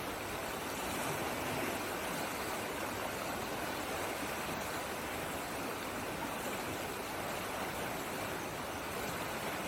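Flowing water rushing steadily and evenly, like a stream or small waterfall, with no change in level.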